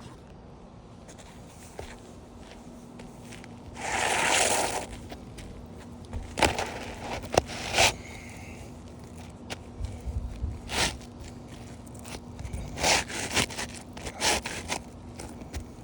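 A new asphalt shingle being handled and slid into place on a roof: one loud scrape about four seconds in, then scattered short knocks and scuffs.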